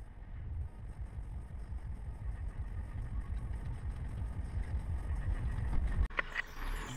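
Car driving along a road: a steady low rumble of engine and road noise, which breaks off suddenly about six seconds in.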